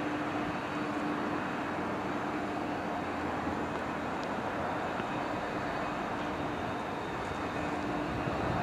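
Class 350 Desiro electric multiple unit moving slowly alongside the platform: a steady running noise from motors and wheels on the rail, with a low hum that fades and returns.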